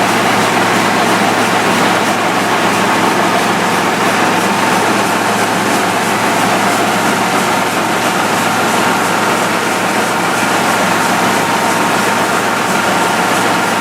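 Rice milling machine running steadily while hulling rough rice: a loud, even mechanical noise with a constant low hum and a steady whine above it.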